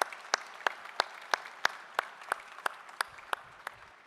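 Audience applauding, with sharp claps in a steady beat of about three a second over the general clapping. It fades out near the end.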